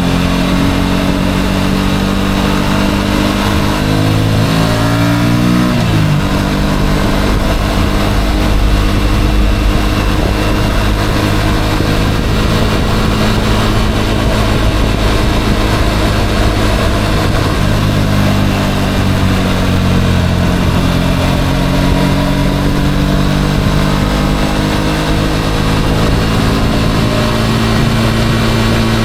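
Motorcycle engine running under way. It revs up for the first several seconds, drops off sharply, runs fairly steadily, then slowly rises again toward the end.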